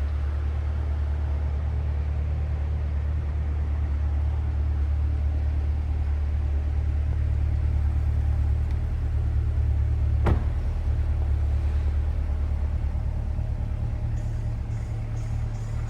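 2020 Chevrolet Corvette's 6.2-litre V8 running with a steady, deep low rumble. There is a single sharp click about ten seconds in, and the rumble eases slightly near the end.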